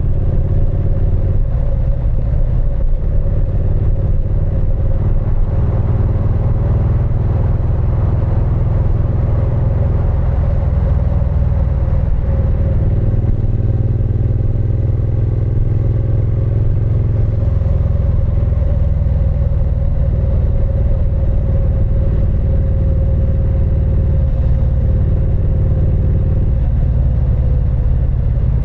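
Triumph Speed Twin 900's parallel-twin engine and exhaust running steadily while riding, a low even rumble. The note shifts slightly about halfway through, then settles again.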